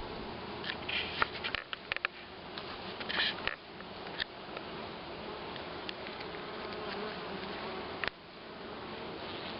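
A mass of honeybees buzzing steadily from an opened Sun Hive colony. Short clicks and crackles of the comb frames being handled come in a cluster during the first few seconds, with one sharp click near the end.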